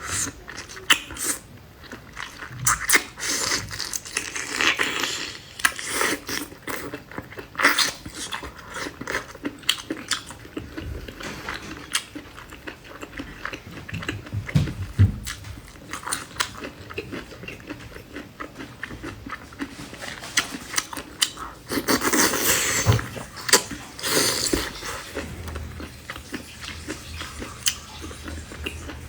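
A person eating close to the microphone: biting, chewing and crunching food in irregular sharp crackling bites, with a denser, louder run of crunching about 22 seconds in.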